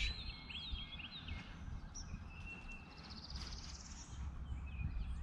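Songbirds singing and calling: short repeated chirps, a thin held whistle, and a rising high trill about three seconds in, over a low steady rumble.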